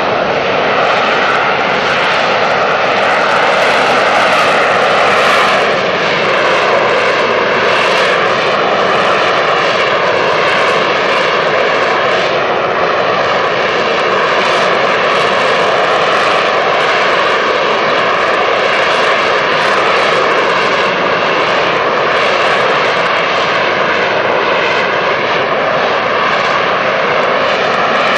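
AV-8B Harrier II jump jet's Rolls-Royce Pegasus turbofan running loud and steady, a dense jet noise with high whining tones that waver slightly in pitch.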